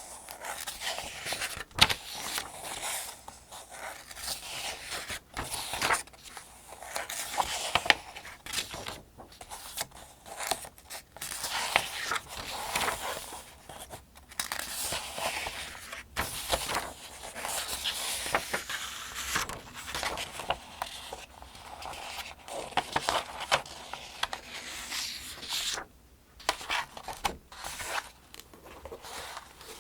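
Paper pages of a Farmers' Almanac being turned one after another, each turn a swishing, crinkling rustle with small crisp snaps, with brief pauses between turns.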